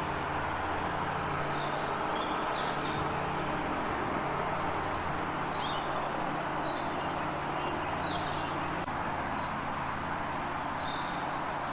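Small birds chirping in short, scattered high calls over a steady background rumble.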